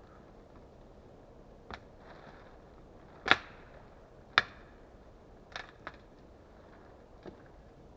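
Six short, sharp wooden cracks at uneven intervals, the loudest two about three and four seconds in.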